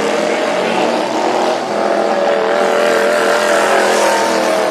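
Racing lawn mower engines running at high revs, the engine note rising a little about halfway through.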